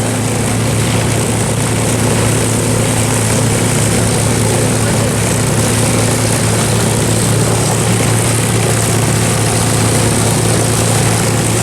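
Propeller-driven P-51 Mustang's liquid-cooled V-12 engine running steadily on the ground with a low, even drone, before the aircraft moves off.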